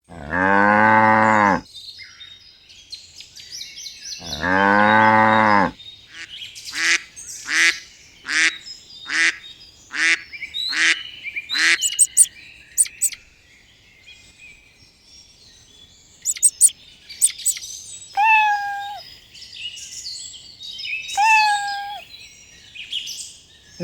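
A sequence of different animal calls: two long, low, steady calls near the start, then a run of about eight short calls, then two clear whistled calls near the end, with birds chirping in the background.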